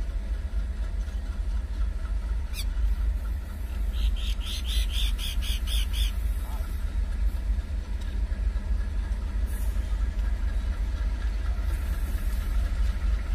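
A bird calling in a quick run of about eight short high notes, around four to six seconds in, over a low steady rumble.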